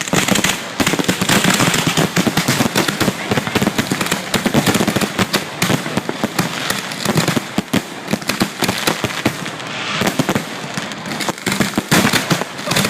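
Fireworks finale: a dense, continuous barrage of shell bursts and crackling, many bangs a second without a pause.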